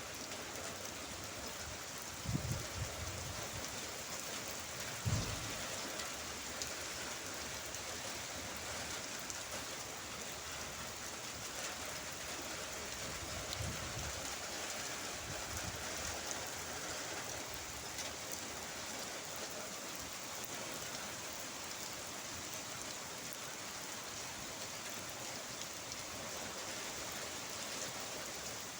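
Steady rain falling, with a few short low thumps about 2, 5 and 14 seconds in.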